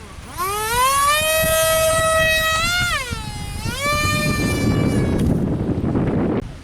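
Electric ducted fan (30 mm, six-blade) whining as the throttle is opened: the pitch rises and holds, dips about three seconds in, climbs again, then cuts back. Wind noise on the microphone follows.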